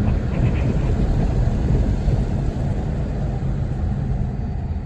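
Steady low rumble of highway traffic, an even road noise without distinct events.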